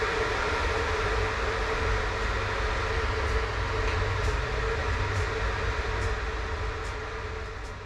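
Steady low rumble and hum of a 1960s CFR sleeper carriage heard from inside the compartment, with a few faint ticks, fading a little near the end.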